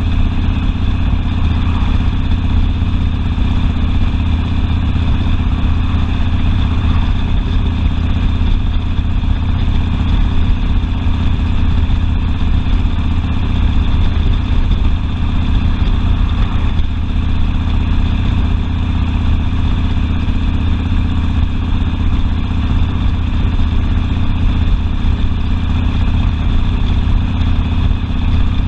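Harley-Davidson Sportster V-twin engine running steadily, with a strong low exhaust note and no clear revving.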